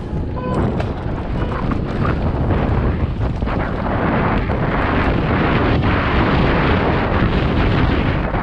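Wind rushing over a GoPro action camera's microphone, mixed with tyre and trail noise from a downhill mountain bike descending at speed. The noise builds over the first second and then holds loud and steady.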